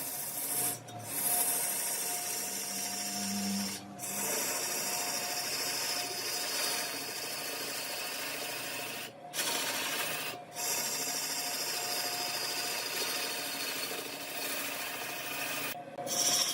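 A large wood lathe spinning a block of wood while a turning tool cuts into it: a steady scraping hiss. It cuts out briefly several times.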